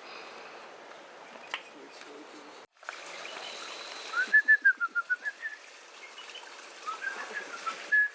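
A bird singing: a quick run of short whistled notes about four seconds in, and a second, shorter run near the end, over a steady outdoor background hiss.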